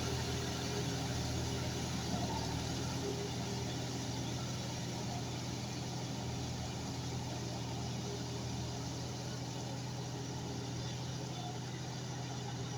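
John Deere 5105 tractor's three-cylinder diesel engine running steadily at an even speed.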